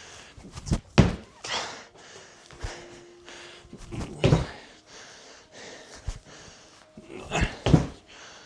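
Heavy panting with a thud about every three seconds, feet landing during box jumps on a 20-inch box; the last rep lands as a quick double thud.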